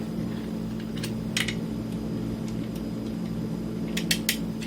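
Soldering kit parts being handled on a bench: a few light clicks and rustles, one about a second and a half in and a quick cluster near the end, over a steady low electrical hum.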